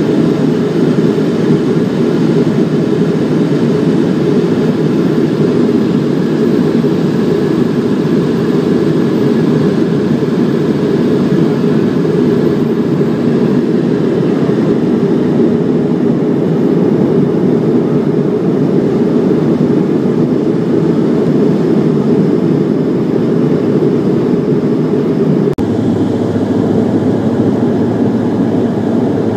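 Steady drone of a Bombardier Dash 8 turboprop airliner's engines and propellers, heard from inside the passenger cabin. The tone shifts abruptly near the end.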